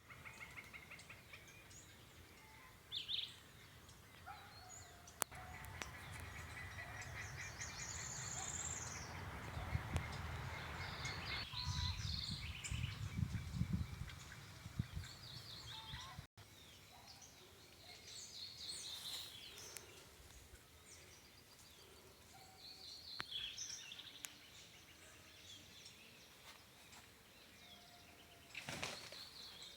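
Several birds calling and chirping in short trills and notes. A low rumble runs under them through the first half, and the sound drops out for an instant about halfway through.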